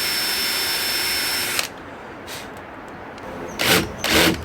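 Power drill boring pilot holes for big screws into a wooden beam: the motor runs at a steady whine and stops about a second and a half in, then a few short loud bursts come near the end.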